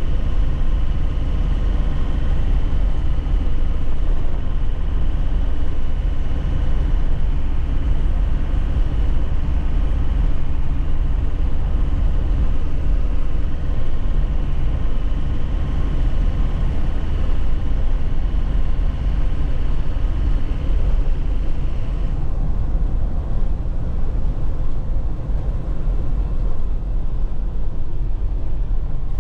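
A 2001 Nissan Cabstar light truck driving, heard from inside the cab: a steady engine drone over a heavy, low rumble from the rough road. A higher, fainter whine over it stops about three quarters of the way through.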